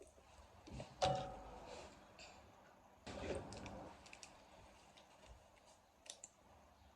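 Small objects being handled: scattered clicks, with a louder knock that rings briefly about a second in and a longer clatter about three seconds in.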